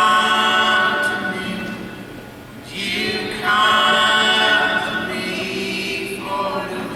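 Several voices singing an unaccompanied harmony in long held notes: two sustained chords of about three seconds each, and a shorter phrase starting near the end.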